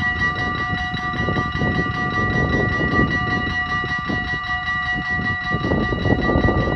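Dutch level-crossing warning bell ringing steadily, over the rumble of a train passing the crossing.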